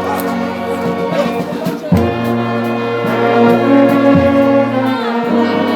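Brass band playing a slow piece in held chords, the bass notes changing about every two seconds.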